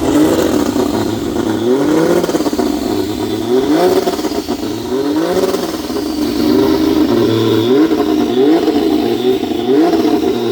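Turbocharged Ford Barra 4.0-litre six-cylinder race boat engine being revved in repeated throttle blips: the pitch climbs and drops back about every second and a half, with short steady stretches between.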